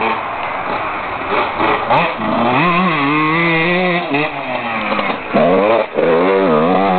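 Husqvarna WR 125 two-stroke enduro motorcycle engine being revved while it warms up. The pitch rises and falls with repeated throttle blips and is held high for a couple of seconds in the middle. It drops briefly near the end and then revs up again.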